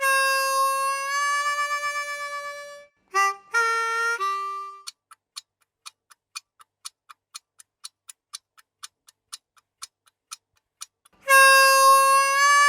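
A reedy held note with a wavering vibrato, then a few short notes, then a steady run of ticks at about three a second, like a countdown clock, lasting about six seconds. Near the end the same reedy held note sounds again.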